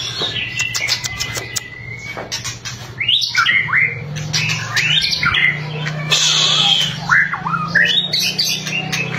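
White-rumped shama (murai batu) singing: a quick run of sharp crackling clicks (its 'kretekan' rattle), then fast, varied sliding whistles and harsh notes. A steady low hum runs underneath.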